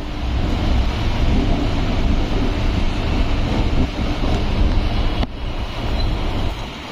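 Suburban electric train running along the track: a steady low rumble with wind noise on the microphone, and one sharp click about five seconds in.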